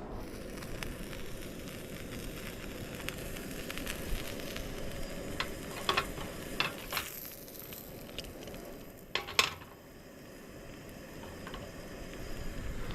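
A chocolate-and-cheese sandwich sizzling steadily inside a metal sandwich toaster over a camp stove. There are a few light metallic clinks between about five and seven seconds in, and a louder one at about nine seconds.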